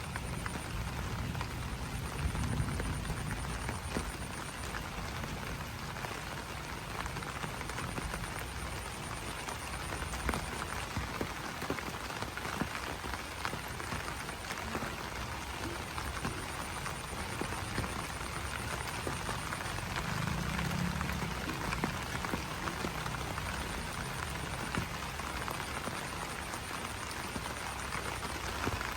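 Steady rain pattering on broad banana leaves, with frogs croaking through it. A high, rapid trill comes and goes in stretches of a few seconds.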